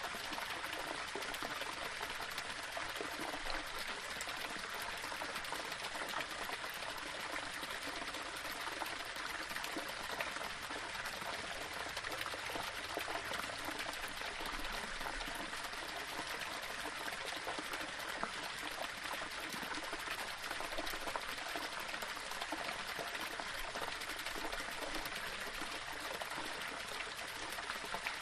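Small waterfall flowing and splashing over rocks, a steady even rush of water.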